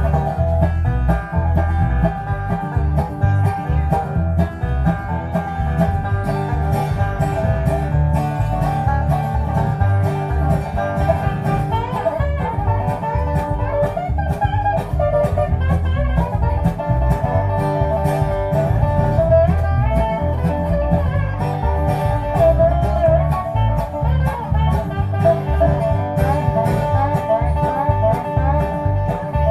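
Acoustic string band music in a bluegrass style, with a picked banjo and guitar over a steady low beat.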